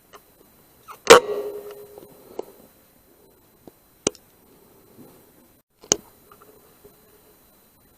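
A single shot about a second in, a sharp crack with a short ringing tail, followed by two fainter sharp clicks a few seconds apart.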